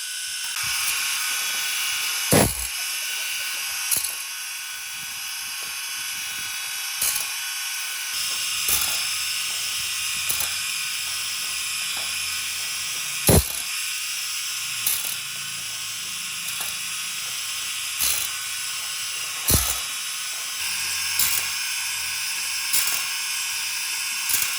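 A small machine running steadily with a high whine and hiss, with sharp clicks every couple of seconds.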